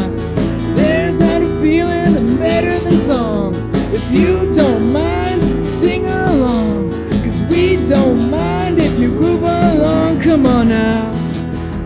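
Acoustic band playing: strummed acoustic guitars keep a steady groove under a lead melody that slides and bends in pitch, with no sung words.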